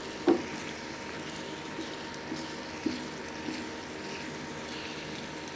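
Egg and tomato masala sizzling in hot oil in a frying pan, the oil starting to separate, while a wooden spatula stirs it with a few knocks and scrapes against the pan, the loudest about a third of a second in.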